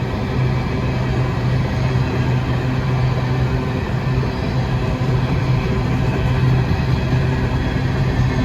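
Freight train running by, with the steady low hum of its diesel locomotive engines over continuous rolling noise.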